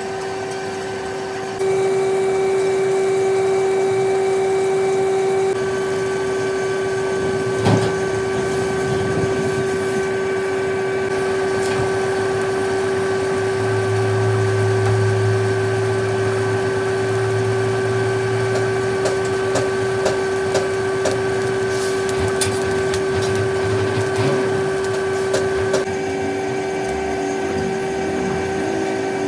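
Steady machine hum from workshop equipment, holding a few fixed tones that shift abruptly a few times, with scattered sharp clicks and knocks.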